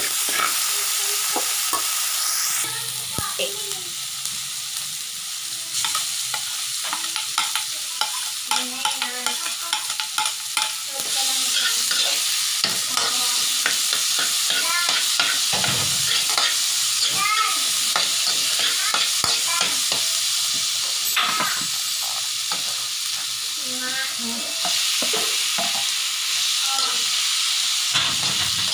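Garlic, onion, tomato and green chilies sizzling in hot oil in a wok while a spatula stirs and scrapes them around the pan, with many short scraping strokes. The sizzle grows louder partway through.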